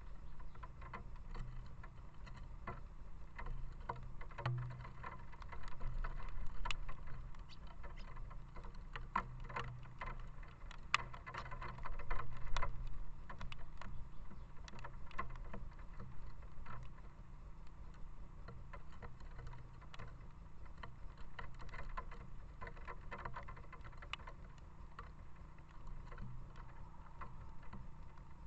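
Rain falling, with many small irregular drop ticks over a steady low rumble.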